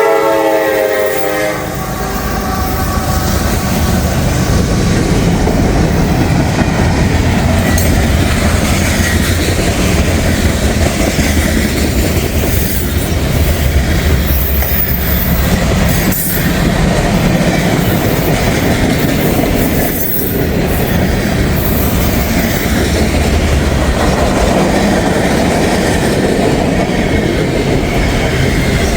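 CSX freight train passing close by. The locomotive's horn is ending at the start and fades out within about two seconds, then the steady rumble and clatter of the freight cars rolling past, with a few sharper clanks.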